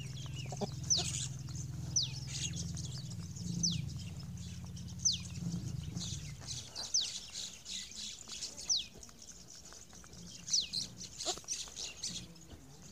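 A small bird calls again and again, each call a short whistle that falls in pitch, about every one to two seconds. A low steady hum runs underneath and stops about halfway through.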